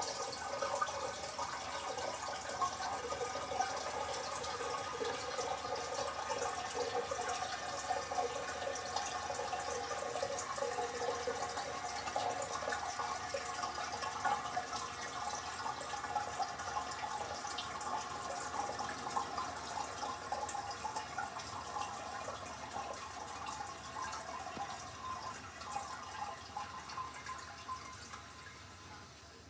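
Water running and trickling in a 2009 Vortens Vienna toilet after a flush, as the tank refills, slowly tapering off near the end.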